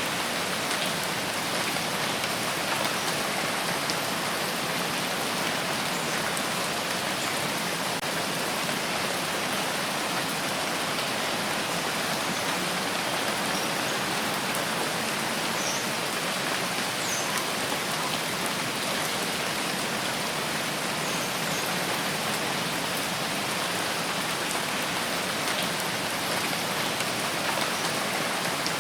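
Steady rain falling on surfaces, an even hiss with occasional faint individual drop ticks.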